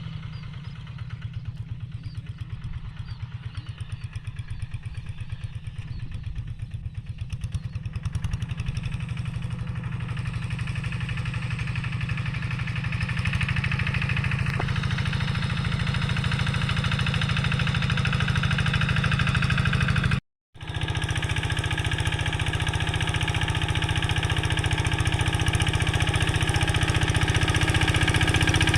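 Quick G3000 walking tractor's single-cylinder diesel engine running steadily under load, pulling a plough through dry soil. It grows louder after about ten seconds and cuts out for an instant about twenty seconds in.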